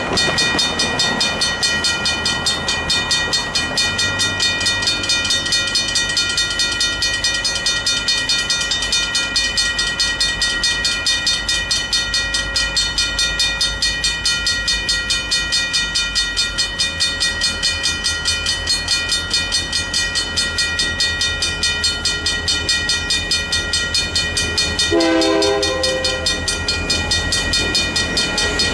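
Mechanical grade-crossing bells ringing rapidly and steadily as the crossing activates, over a low rumble of approaching diesel locomotives that builds after a few seconds. About 25 seconds in, a locomotive horn sounds briefly.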